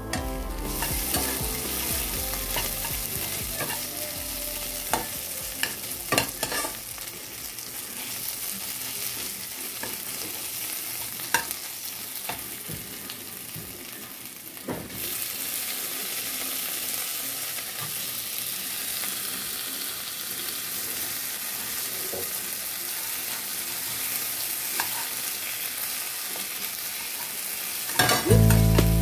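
Sliced onions sizzling in oil in a nonstick pan, stirred with a spatula that scrapes and taps against the pan now and then. Background music comes in near the end.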